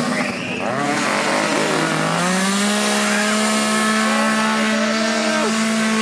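A small engine running steadily; about two seconds in its pitch rises and holds, then drops away shortly before the end.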